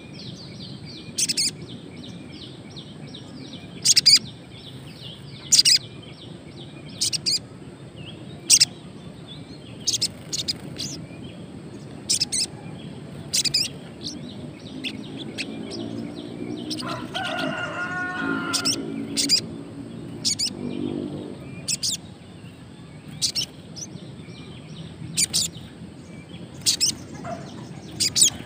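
Caged sogon bird giving short, sharp chirps, one every second or two, with softer twittering between; a newly kept bird that has begun calling but is not yet in full song. A rooster crows in the background about halfway through.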